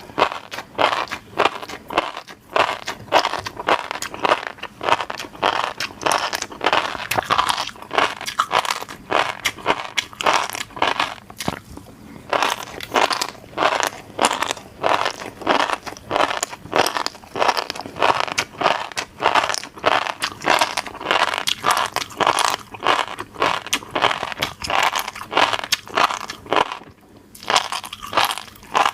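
Close-miked chewing of fish roe: dense, rapid crackling and popping as the roe beads burst in the mouth, with brief pauses about twelve seconds in and near the end.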